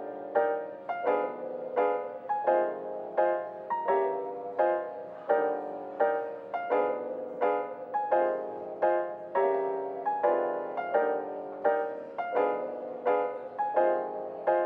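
Gentle piano background music: a steady pattern of repeated chords, about one and a half a second, each ringing out before the next.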